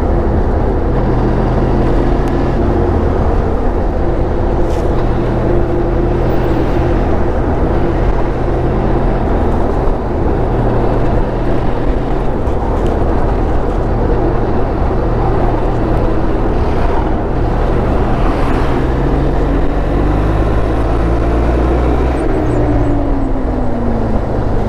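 Motorcycle engine running on the move over a heavy low rumble, its pitch shifting now and then and falling away near the end as it slows.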